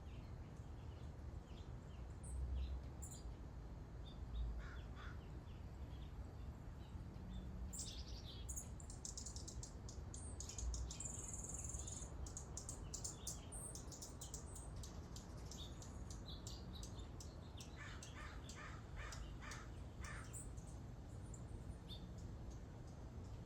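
Wild birds calling faintly: scattered high chirps, a busy flurry of them around the middle, and a run of about six evenly spaced calls near the end.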